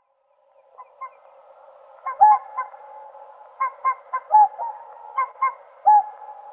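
Whooper swans calling: repeated short, loud honking calls, often in quick pairs, over a steady background of fainter calling. The calls start faintly about a second in and grow loud from about two seconds in.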